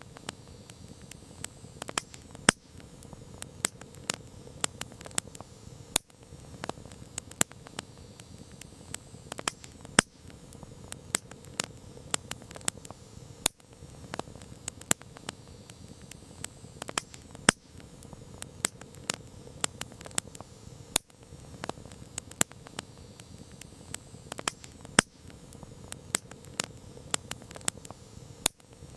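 Campfire wood burning with a steady crackle: irregular sharp pops and snaps several times a second over a low hiss of flames, some pops much louder than the rest.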